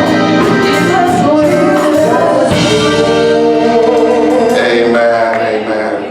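Gospel choir singing with instrumental accompaniment, the voices holding long notes. The music fades down near the end.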